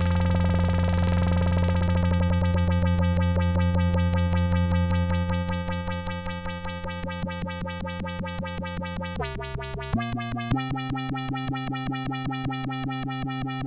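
Behringer K-2 analog monophonic synthesizer (an MS-20 clone) sounding a held, bright bass tone with a fast repeating pulse running through it. A little after nine seconds the pitch steps down, then jumps back up in two steps.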